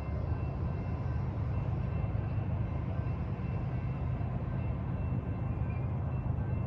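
Train rumbling steadily, a low, even rumble with no breaks.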